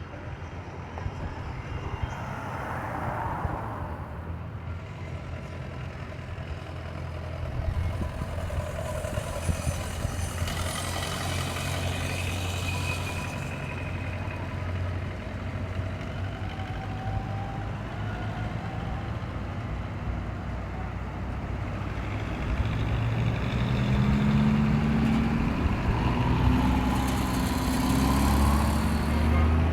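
Tractor engines running as tractors drive past in procession. A steady low engine drone, with a hiss about ten seconds in; from about 22 seconds one engine grows louder and its note rises and falls as it passes close.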